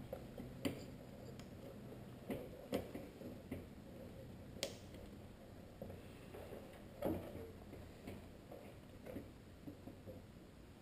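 Scattered light clicks and knocks at irregular intervals, of hand tools and plastic and metal parts being handled while a car headlight assembly is fitted.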